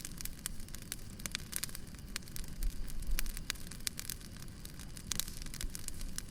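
Wood fire burning: a log fire crackling with many irregular sharp pops and snaps over a low, steady rumble of the flames.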